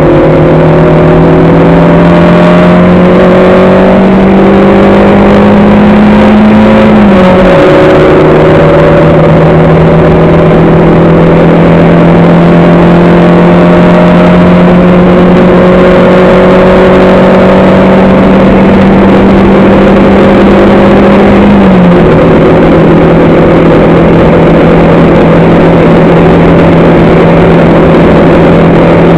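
On-board car engine pulling hard under load, its note climbing slowly and then dropping sharply with a gear upshift about seven seconds in and again about twenty-two seconds in. It runs very loud throughout.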